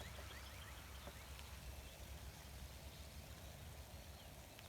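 Faint outdoor ambience at the start of a light rain. A bird gives a quick run of short rising chirps near the start, with scattered light ticks of sprinkling raindrops over a low steady rumble.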